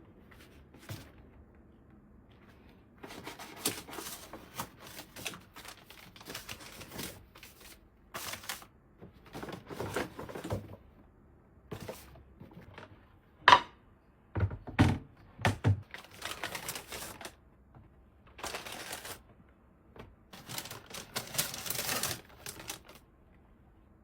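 Irregular clicks, taps and rustles of objects being handled, with one sharp loud click a little past the middle followed by a few dull thuds.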